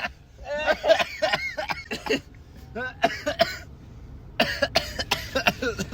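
A person coughing repeatedly in short, broken fits with throaty vocal sounds, pausing briefly about two and four seconds in.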